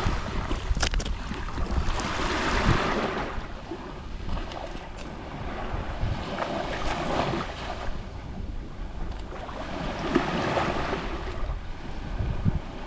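Small Mediterranean sea waves lapping on the shore. Three waves wash in, each swelling and then fading over a second or two.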